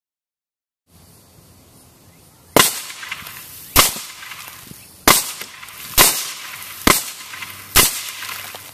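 Six suppressed gunshots, fired about a second apart, each with a short echo.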